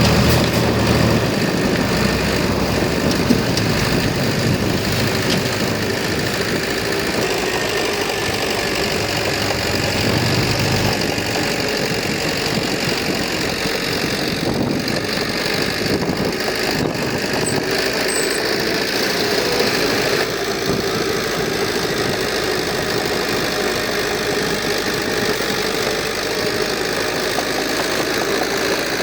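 Heavy diesel engine of earthmoving machinery running steadily, with a deep rumble that drops away about eleven seconds in.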